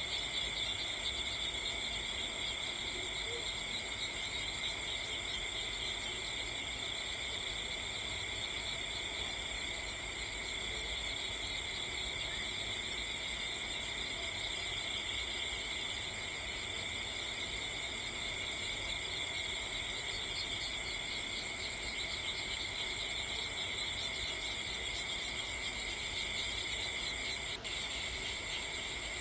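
Steady chorus of crickets trilling at several high pitches at once, unbroken throughout, with one faint click near the end.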